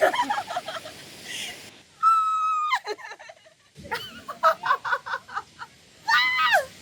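Short bursts of a person's voice: a held high call that drops away about two seconds in, a quick run of syllables in the middle, and a rising-and-falling cry near the end.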